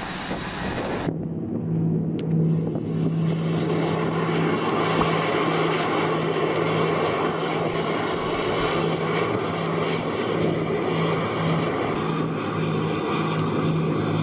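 Steady mechanical drone of a large engine with a low hum, which sets in abruptly about a second in.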